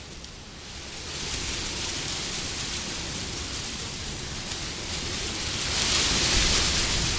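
Wind blowing in gusts: a rushing noise that dips at the start, builds again about a second in, and swells to its loudest around six seconds in.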